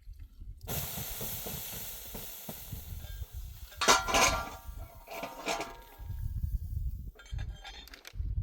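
Sizzling that starts suddenly and dies away over a few seconds, as of something hitting a hot pan, followed by two loud scraping clatters and then light clicks.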